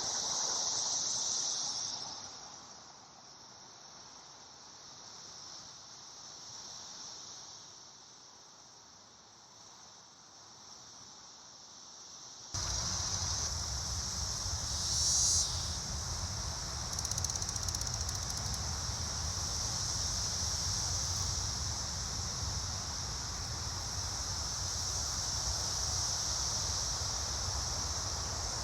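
Brood X periodical cicadas chorusing: a steady, high, shrill buzzing drone. It sinks lower for several seconds, then comes back abruptly about a third of the way in along with a low rumble, and one nearer cicada buzzes louder briefly soon after.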